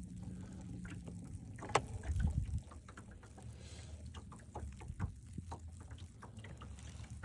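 Handling noises on a small fishing boat: a low rumble with scattered light clicks and knocks, a sharp click about 1.7 seconds in and a louder low thump just after. A faint steady hum fades out about a second in.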